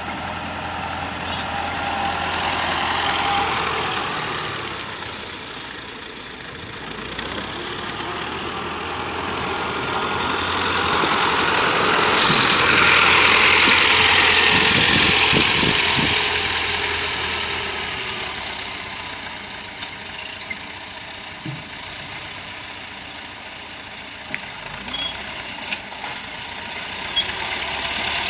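T-40 tractor's diesel engine running, its sound swelling and easing off as it works, loudest about halfway through. A few short light knocks come in the last third.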